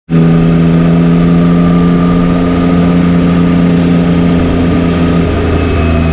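Yamaha Tracer 9's 890 cc inline-three engine running at a steady pace while riding, with wind noise; its note drops about five seconds in as the bike slows.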